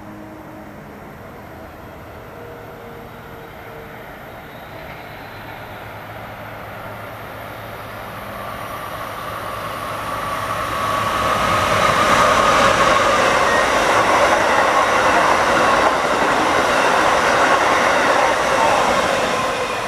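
Amtrak Avelia Liberty (Acela 21) electric high-speed trainset approaching and passing at speed. A rushing noise of wheels on rail builds over about ten seconds, then stays loud and steady as the cars go by.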